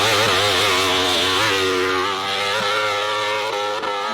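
Hill-climb motorcycle engine revving hard under load, its pitch wavering rapidly up and down as the throttle is worked.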